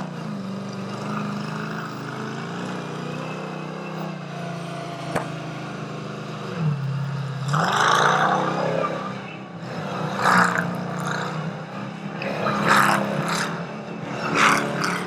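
The 500-horsepower Tut Truck's engine running steadily; its pitch drops briefly and comes back up about seven seconds in. Several louder surges follow in the second half.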